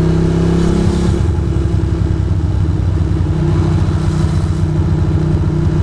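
Ducati Monster 620's air-cooled V-twin engine running at low revs under the rider. About a second in its pitch drops as the revs fall, and it then runs on steadily with a fast pulsing beat.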